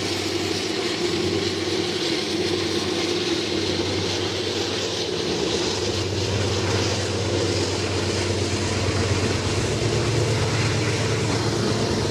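Diesel freight locomotive running under power: a steady low engine drone with noise from the train on the rails, slowly growing louder near the end as it comes closer.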